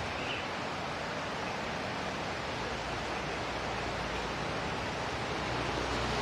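Steady hiss of falling water, like a rain shower, for a songbird's rain-water bath.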